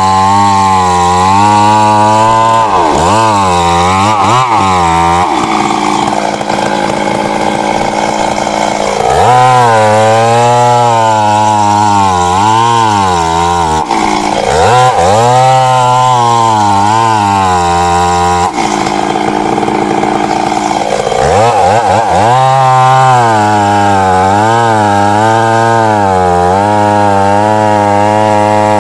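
Stihl MS 382 two-stroke chainsaw running at full throttle while cutting through a large tree trunk, its pitch sagging and recovering several times as the chain is loaded in the cut.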